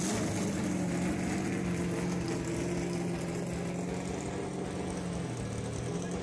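Car engine sound effect idling steadily at an even pitch.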